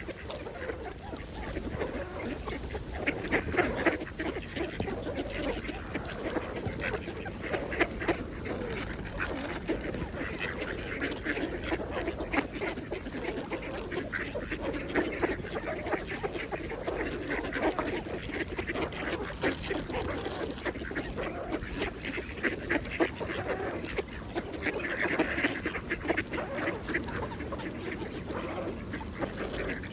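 Mallard ducks quacking and chattering while feeding, with many quick clicks throughout and louder clusters of calls every few seconds.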